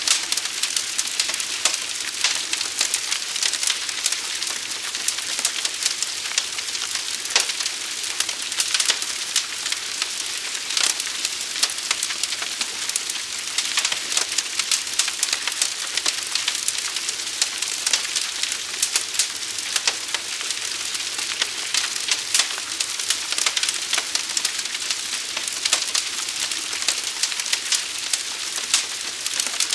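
A big fire burning, a steady crackling hiss thick with small sharp pops and snaps.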